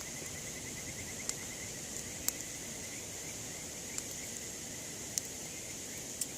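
Insects chirping steadily, a high hiss under a fast pulsing trill, while a wood campfire gives five sharp pops about a second apart.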